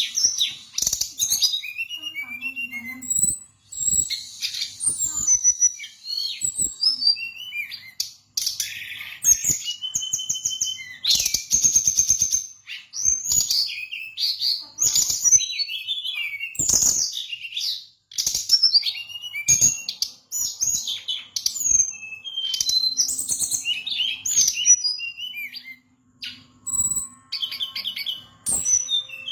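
Fulvous-chested jungle flycatcher (SRDC) singing a fast, varied song of short whistled notes and slurs mixed with rapid rattling runs, with a few brief pauses.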